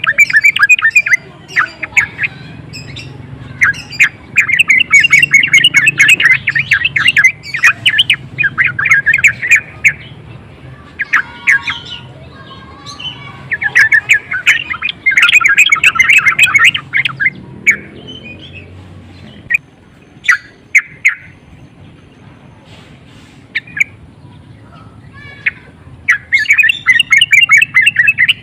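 Yellow-vented bulbul (trucukan) calling in bursts of rapid chattering notes, three long runs of several seconds each with short single notes between them. This is the excited call that keepers play to provoke other bulbuls into singing.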